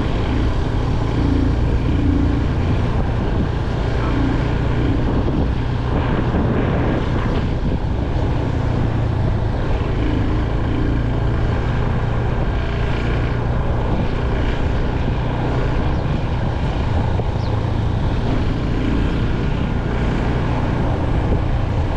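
Motorcycle engine running at a steady cruise, a low, even drone mixed with wind rush from riding.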